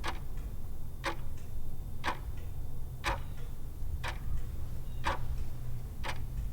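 Clock ticking once a second, seven even ticks, over a steady low hum: a countdown-timer sound effect.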